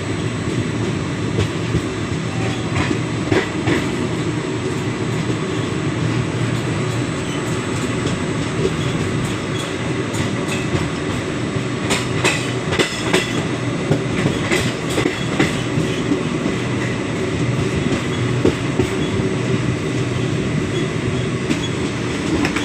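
Moving passenger train heard from on board: a steady rumble of the wheels on the rails, with irregular sharp clicks and rattles, more of them around the middle.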